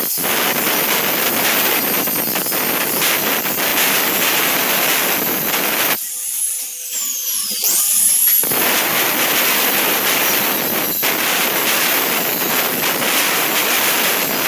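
Electric arc welding crackling steadily, with a pause of about two seconds after six seconds before the arc is struck again.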